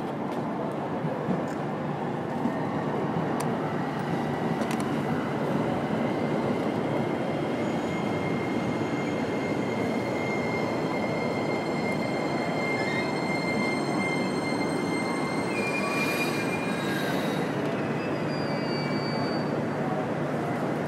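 Railway noise at a station platform: a steady rolling rumble with high, thin, steady squealing tones of train wheels on rail, and a short higher squeal about sixteen seconds in.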